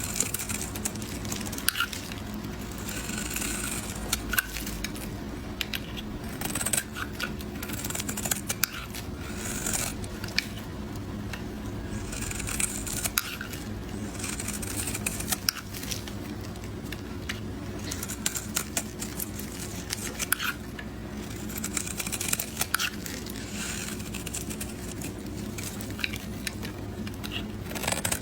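A knife cutting through a bar of soap into cubes, with crisp clicks and crackles in short clusters as the blade cuts and the cubes break apart. A steady low hum runs underneath.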